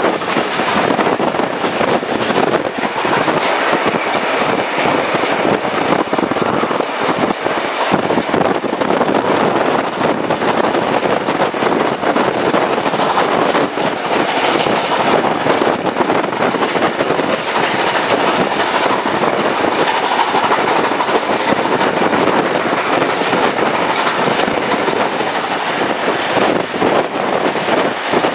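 Steam-hauled passenger train running at speed, heard at an open carriage window: the carriage wheels click and clatter over the rails against a steady rush of rolling noise and air.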